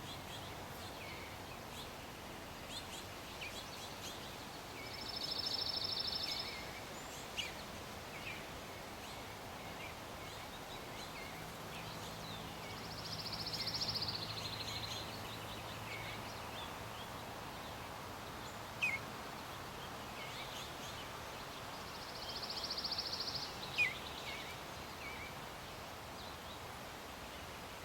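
Outdoor backyard ambience with small birds giving short high chirps, three buzzy high trills each lasting a second or two, and a couple of sharp ticks.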